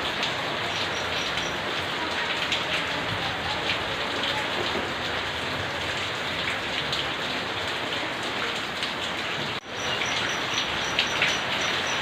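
Steady rain falling on surfaces, with many individual drops ticking through the hiss. Near the end the sound briefly cuts out and comes straight back, and a faint high chirp repeats at an even pace.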